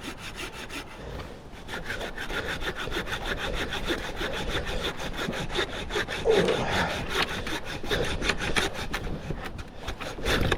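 Hand saw cutting through a fallen log in fast, even back-and-forth strokes, several a second.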